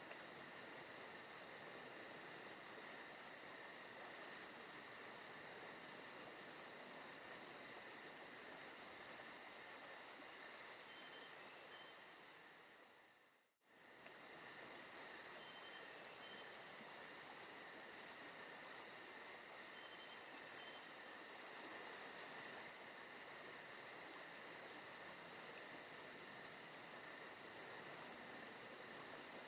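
Forest ambience of crickets and other insects chirping steadily in a fast, high pulsing trill. About halfway through it fades down to silence for a moment, then fades back up.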